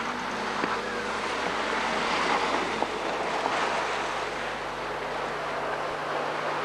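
Car engines running as racing saloons slide round a snow-covered circuit, heard from trackside through a dense rushing noise, with a steady low hum underneath.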